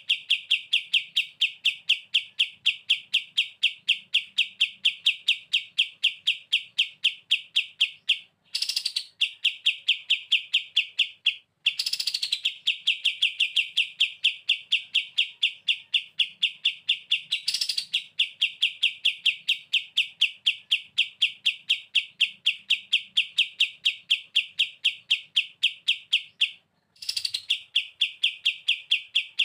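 Kapas tembak (olive-winged bulbul) singing in its 'bren' style: long runs of rapid, evenly repeated high chirps, about five a second, each run lasting several seconds with brief breaks between.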